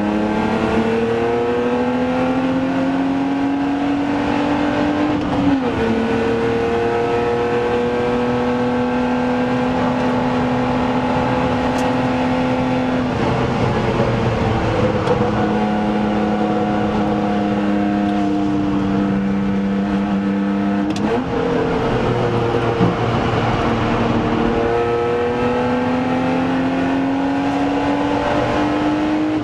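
BMW Z3 2.8 Coupé's straight-six engine, heard from inside the cabin, running hard on track. The note climbs with the revs and drops sharply at gear changes about five seconds in and again near the end, with a break in the sound around twenty-one seconds. Tyre and wind noise run underneath.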